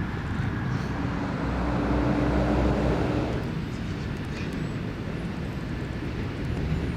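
Steady low outdoor rumble like distant traffic or a vehicle, swelling for a couple of seconds about a second in, with a faint hum over it.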